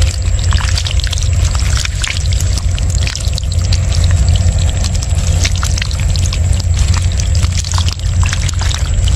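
Water splashing and sloshing in quick irregular bursts over a steady low rumble.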